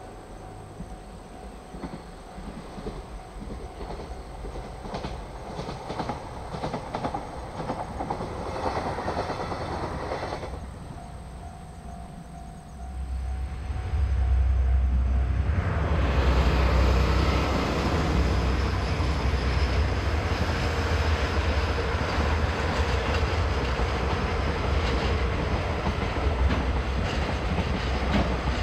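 A freight train hauled by a JR Freight DD51 diesel-hydraulic locomotive passes. The sound builds over the first ten seconds and dips briefly. About thirteen seconds in it turns much louder, with a heavy low engine rumble, and then the clatter of freight wagons on the rails continues to the end.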